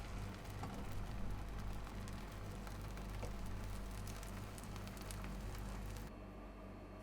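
Cooking oil sizzling and crackling on a hot pan, over a low steady hum. About six seconds in, the sound cuts abruptly to a duller, quieter hum.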